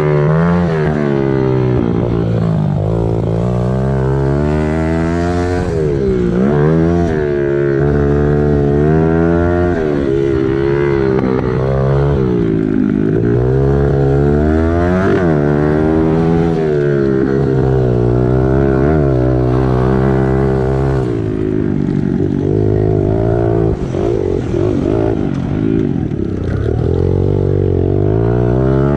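Small single-cylinder four-stroke pit bike engine being ridden hard. It revs up and shuts off again and again, its pitch rising and falling every second or two.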